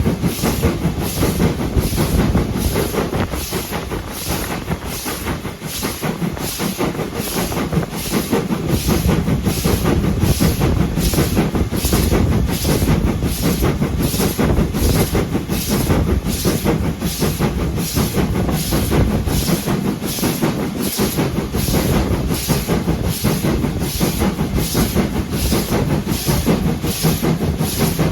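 Train running on the line: a steady low rumble with an even rhythmic beat of just under two a second.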